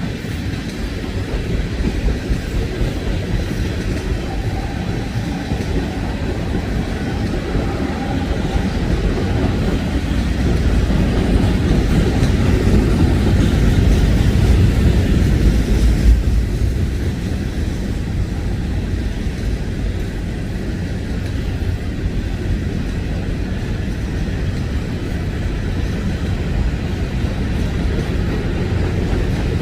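Freight train cars rolling past on the rails, a steady rumble of steel wheels on track that swells a little about halfway through.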